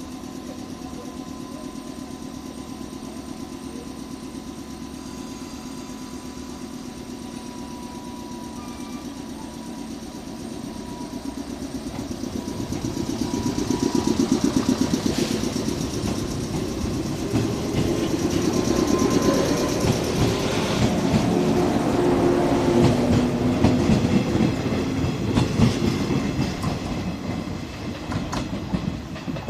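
JR 113 series electric train departing a station: a steady hum at first, then from about eleven seconds its traction motors grow louder as it accelerates past, with a rhythmic clack of wheels over rail joints.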